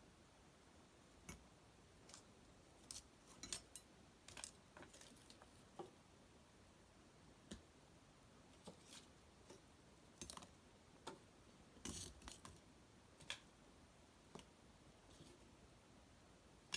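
Cedar wood fire in an irori hearth crackling faintly, with irregular sharp pops and snaps from the burning branches and bark.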